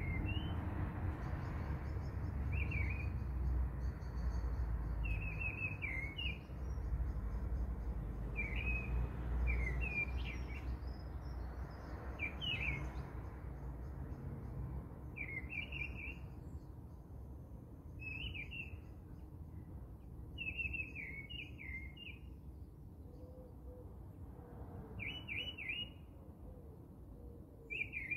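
A bird chirping in short repeated bursts every two to three seconds, over a low steady rumble that fades during the second half.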